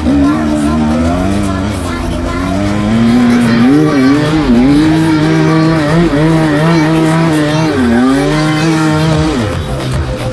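Enduro motorcycle engine revving hard, its pitch held high for stretches and dipping and climbing again several times as the throttle is rolled off and back on.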